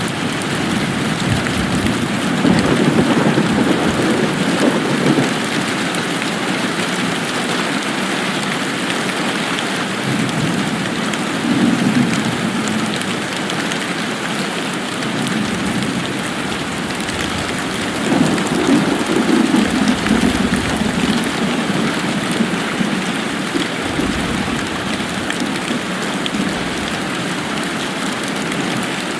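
Steady rain falling, a constant hiss of drops, with low rumbles swelling up and fading three times.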